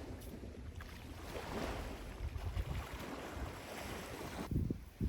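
Sea waves washing onto a beach in slow swells of hiss, with wind buffeting the microphone. Near the end the hiss drops away and a few low wind thumps on the microphone stand out.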